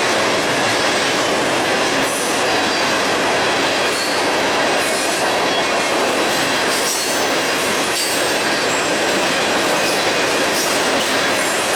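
Freight train rolling past at close range: a steady loud rumble and rattle of steel wheels on the rails, with faint thin wheel squeal coming and going.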